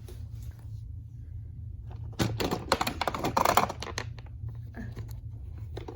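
Plastic toys being handled: a burst of rapid clicking and clattering starts about two seconds in and lasts nearly two seconds, with a few scattered clicks after it.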